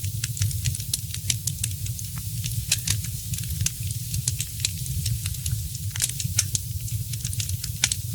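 Wood fire in a fireplace crackling, with frequent sharp, irregular pops and snaps over a steady low rumble of burning.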